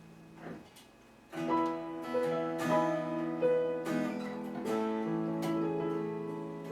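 Acoustic guitar strumming chords in a slow country song intro. A held chord fades out, and after a short gap the strummed chords come in about a second and a half in.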